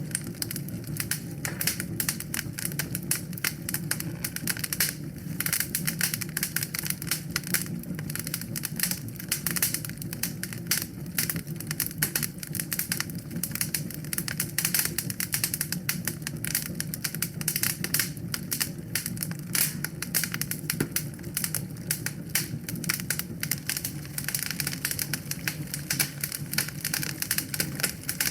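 Wood fire crackling in a fireplace: a dense, irregular stream of sharp snaps and pops over a steady low rush of the flames.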